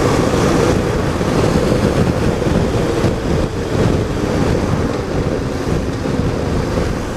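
Wind rushing over the microphone while a 2013 BMW R1200GS is ridden, with the steady drone of its flat-twin engine and road noise underneath.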